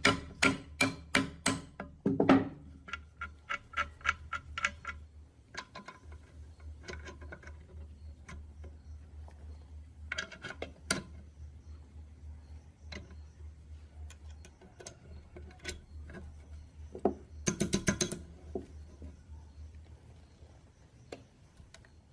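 Sharp taps and clicks of work on metal parts: a quick run at about four a second, a heavier knock about two seconds in, then scattered taps and a brief flurry of clicks near the end. A steady low hum runs underneath.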